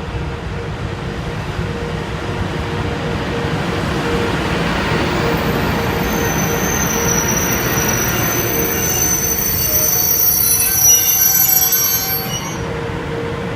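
A train running past with a steady rumble, and its wheels squealing on the rails. The high-pitched squeal starts about a third of the way in, is loudest near the end, then fades.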